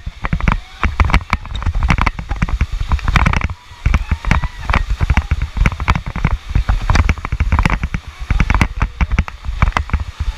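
Whitewater splashing around a rafting boat, with a rapid jumble of knocks and splashes and a heavy low buffeting on the microphone. A few short shouts break in partway through.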